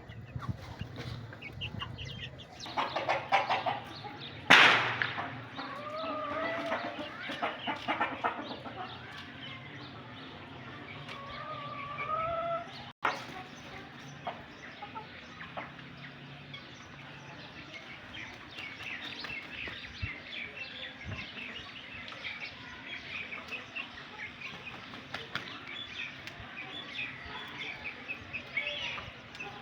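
Chickens and roosters clucking and calling, with a sudden loud burst about four seconds in. About halfway through the sound cuts to a steady chatter of many short, high chirps.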